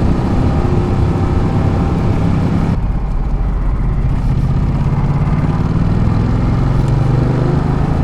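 Ducati Multistrada 1200's V-twin engine running on the move, with a steady rush of noise over it. About three seconds in the upper rush drops away sharply, and the engine note then climbs slowly in pitch.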